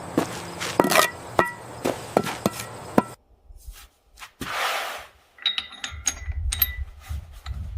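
A run of sharp knocks in quick succession, like hammer blows, then a short whoosh, then scattered clicks and short tones over a low rumble.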